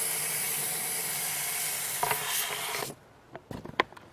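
Aerosol hairspray can spraying accelerant into a potato cannon's combustion chamber: one long steady hiss that stops about three seconds in. A few light knocks and clicks follow near the end.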